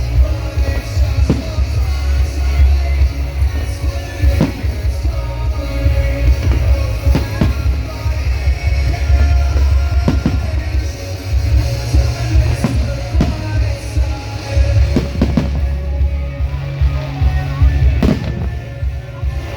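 Loud music with a heavy bass line, played over loudspeakers, with fireworks banging every second or two as a show goes off to the music.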